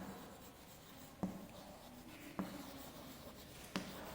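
Faint writing on a board, with a few light taps a second or so apart as the pen or chalk meets the board.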